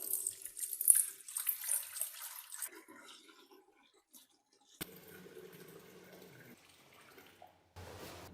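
Water running and splashing, loudest in the first two and a half seconds, then quieter, with a sharp click near the middle.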